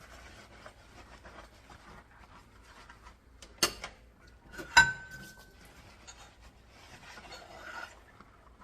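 Dishes being washed by hand: soft rubbing and rustling, with two sharp clinks of dishware about a second apart near the middle. The second clink is the loudest and rings briefly.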